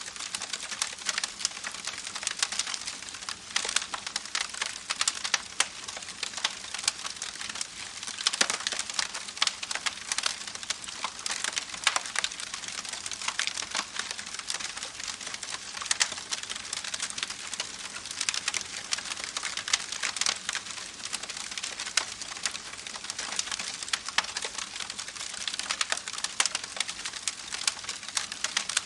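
Campfire crackling: a dense, irregular run of small pops and snaps over a steady hiss.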